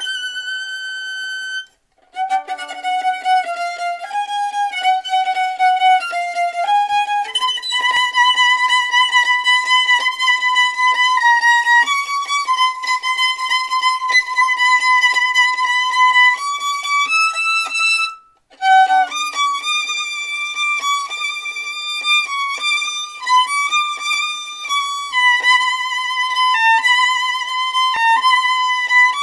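Solo violin playing a melody of long held notes with small slides between them, breaking off briefly about two seconds in and again about eighteen seconds in.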